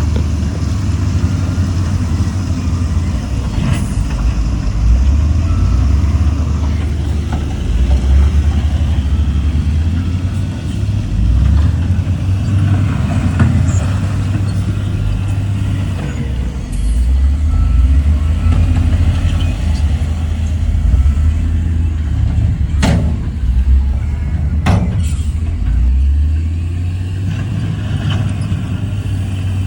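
Heavy diesel earthmoving machinery running under shifting load, its low engine rumble swelling and easing, with two sharp metallic clanks about two seconds apart a little past two-thirds of the way through.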